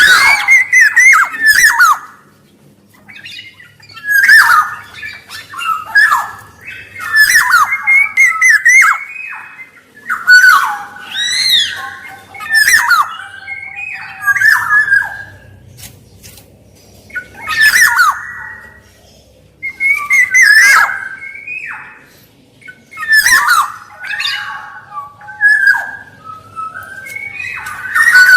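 Black-naped oriole (kepodang) calling in repeated phrases every two to three seconds. Each phrase mixes quick fluty whistled notes with harsh, nasal squawks.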